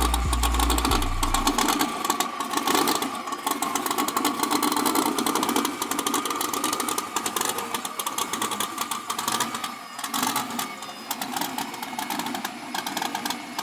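A vehicle engine running steadily, holding a fairly even pitch, over a clattery noise; low bass tones stop about a second and a half in.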